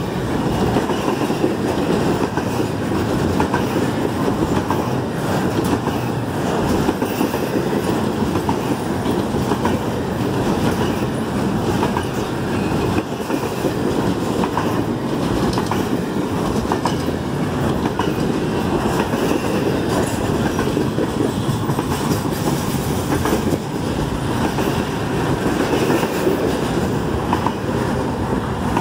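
Double-stack intermodal freight train's well cars rolling past: a steady rumble of steel wheels on rail, with clickety-clack from the wheels over the rail joints.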